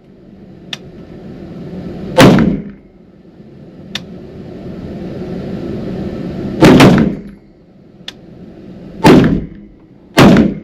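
AR-15 rifle in 5.56 fired four single shots, the gaps between them shortening: one about two seconds in, one past the middle, and two about a second apart near the end. Each shot leaves a brief reverberant tail off the indoor range's walls, and fainter sharp clicks fall between them.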